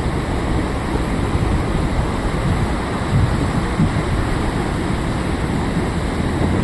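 Rough sea surf, waves breaking and washing in a continuous rush, with wind buffeting the microphone.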